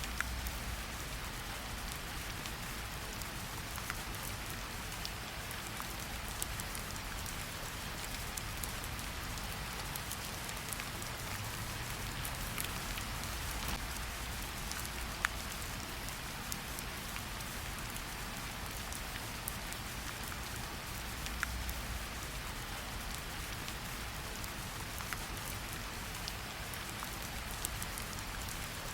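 Steady rain falling in a forest: an even hiss of rainfall with scattered single drops ticking close by.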